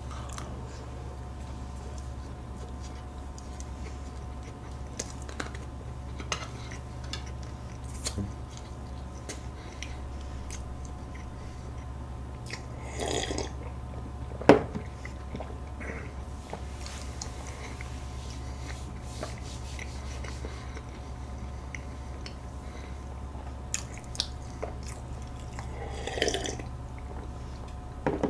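A person chewing cheesecake close to the microphone, with soft, wet mouth sounds and small clicks. About halfway through there is a sip of milk from a glass, then a single sharp click. A steady low hum runs underneath.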